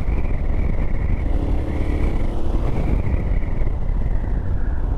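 Yamaha Ténéré 700's parallel-twin engine running steadily while the bike is ridden, under a heavy low rumble of wind noise on the microphone.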